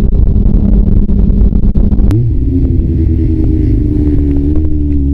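Kawasaki ZRX400 inline-four engine running under way, with wind buffeting the microphone. About two seconds in there is a sharp click, and the engine note jumps and settles at a higher, steady pitch while the wind noise drops.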